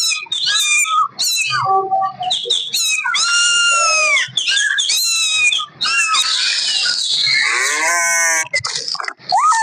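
Kittens mewing in a rapid run of high calls, one after another and overlapping, with a longer, lower call near the end.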